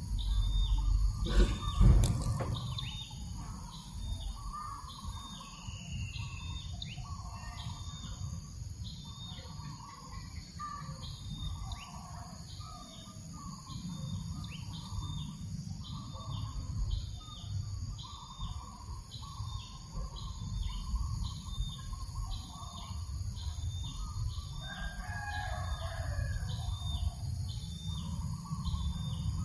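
Farm birdsong with a high chirp repeating about once a second and other birds calling, over a low wind rumble on the microphone. A rooster crows about twenty-five seconds in. Near the start come a couple of sharp knocks, the loudest moment.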